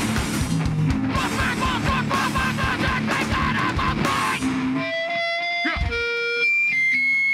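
Hardcore band playing live: loud distorted electric guitars, bass and rapid drums. About four and a half seconds in, the band stops and held electric guitar tones ring on, stepping in pitch, then cut off suddenly near the end.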